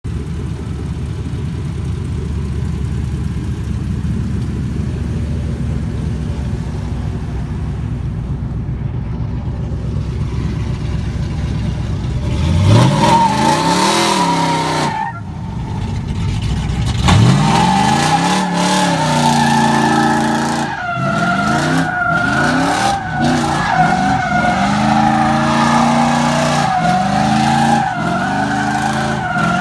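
Cammed 5.3 V8 of a Chevrolet Silverado pickup with a low, uneven rumble, then revving hard partway through, dropping back and revving up again. It is then held against the rev limiter, cutting out again and again in brief dips, while the tires squeal with a wavering pitch as the truck slides.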